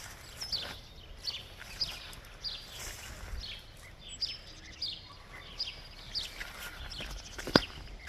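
A bird calling over and over, a short falling chirp about every half second, over low outdoor background noise. A single sharp knock near the end is the loudest sound.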